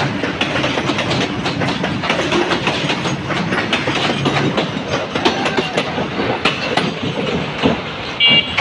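Freight train running past at high speed, its wagons rattling and the wheels clattering steadily over the rail joints. A short, high tone sounds near the end.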